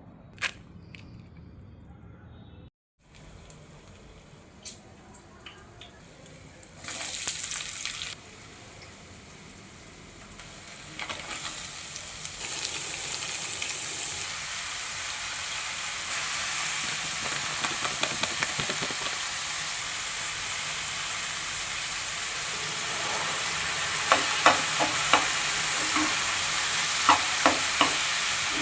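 Food frying in hot oil in a pan. A short loud burst of sizzling comes about seven seconds in, then a steady sizzle builds and carries on. Near the end a utensil taps sharply against the pan several times as the food is stirred.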